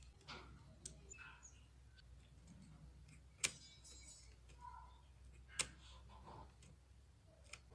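A few scattered sharp clicks, two much louder than the rest about three and a half and five and a half seconds in, over a faint low hum.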